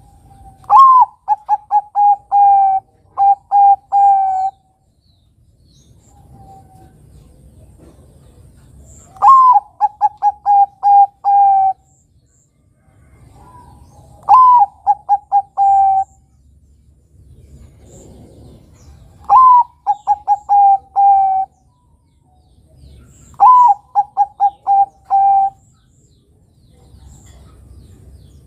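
Bangkok-type zebra dove (perkutut) cooing its song five times. Each phrase is an opening note that rises and falls, then a quick run of short repeated coos and a longer final coo.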